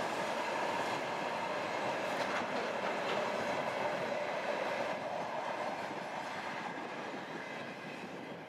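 Empty timber stake wagons at the tail of a freight train rolling past, a steady noise of wheels on rails. It fades away from about five seconds in as the last wagon goes by.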